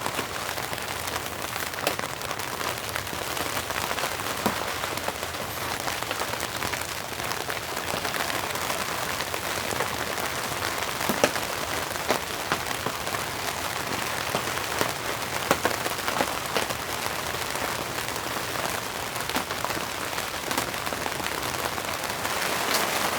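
Steady rain falling, with scattered louder drops striking close by now and then; it grows a little heavier near the end.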